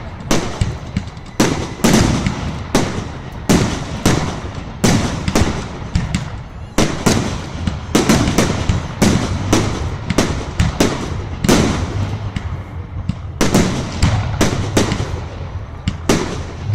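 Fireworks exploding in a rapid run of bangs, about one or two a second, each with a short echo.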